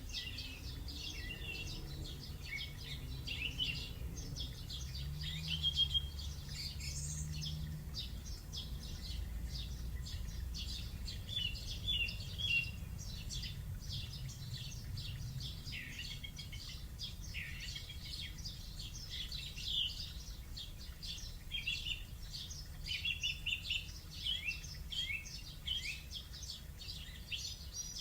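Recorded birdsong played from an Alexa smart speaker: many birds chirping and trilling at once, a continuous morning chorus, over a low steady hum.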